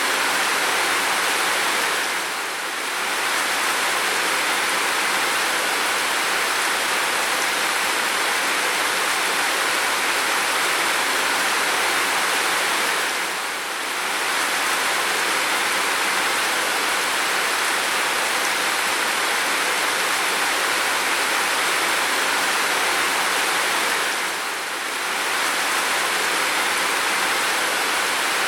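Heavy rain falling, a steady rushing hiss, with slight brief dips in loudness about every eleven seconds.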